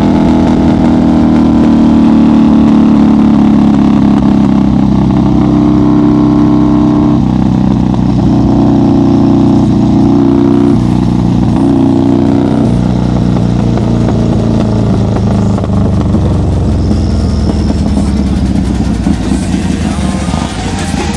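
1990 Harley-Davidson FXR's Evolution V-twin running under way, heard from the rider's seat. Its pitch steps down a few times in the first half, as when easing off and shifting, and it settles into a lower, rougher beat for the rest.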